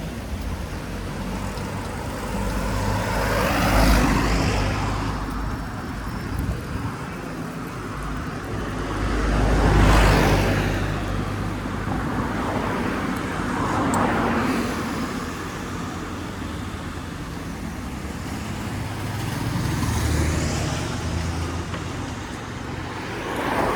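Road traffic: cars passing one after another, about four of them, each swelling up and fading away over a steady low rumble.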